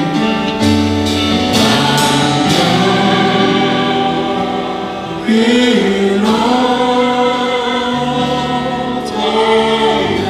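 A church praise team and congregation singing a Korean worship song together, with held notes over instrumental accompaniment.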